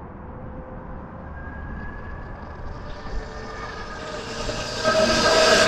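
Electric motor whine from a 48-volt electric dirt bike riding up, growing steadily louder from about a second and a half in and loudest at the end.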